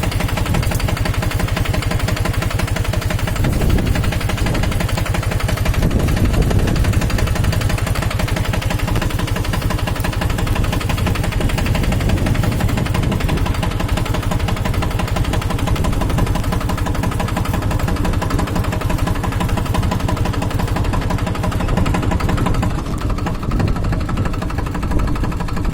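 Captain 250 DI mini tractor's diesel engine running steadily with a dense, rapid chugging, swelling briefly twice a few seconds in.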